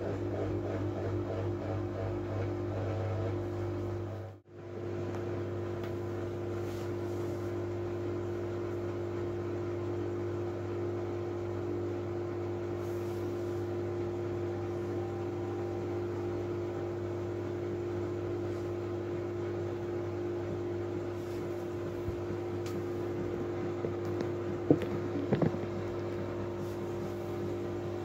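Miele W433S washing machine running with a steady motor hum, briefly dropping out about four seconds in; a few light clicks come near the end.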